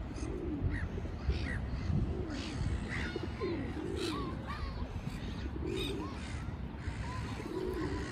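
Birds calling, short harsh caw-like calls repeated every second or so, over a steady low rumble.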